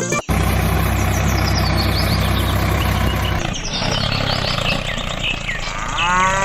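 A small tractor engine running steadily after music cuts off, its hum dropping about three and a half seconds in, with birds chirping over it. A cow begins to moo at the very end.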